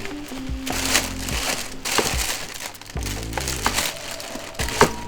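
Background music with held notes, over repeated crinkling and rustling of packaging being handled.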